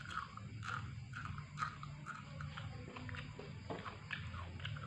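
A person chewing a mouthful of yellow rice and chilli close to the microphone, with a string of short, wet smacking clicks, about two or three a second.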